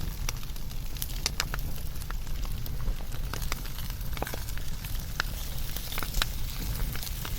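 Wood fire burning, with sharp irregular crackles and pops over a steady low rumble of the flames.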